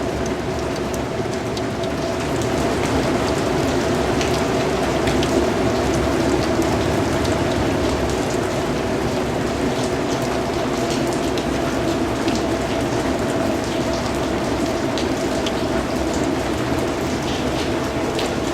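Steady rain falling, with scattered individual drops ticking sharply above the even hiss and a faint low steady drone beneath. It grows a little louder about two seconds in.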